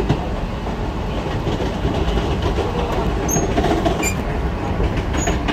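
Trains running side by side on parallel tracks, heard from inside a Mumbai AC local train behind its closed windows: a steady rumble of wheels on rail, with a few sharp clicks in the second half.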